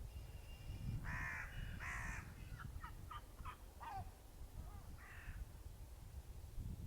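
Gulls calling: two harsh squawks, then a quick run of short falling notes and another squawk, over the low rumble of wind on the microphone.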